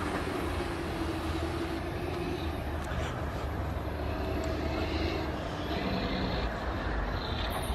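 Steady low rumble of a train running, with a faint hum.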